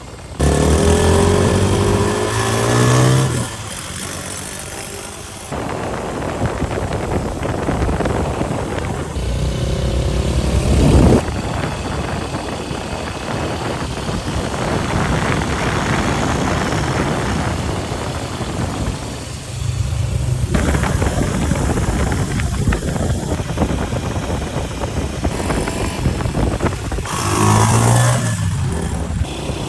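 Yamaha Jupiter MX 135 underbone motorcycle's single-cylinder four-stroke engine running, revved up several times. The sound changes abruptly between short takes.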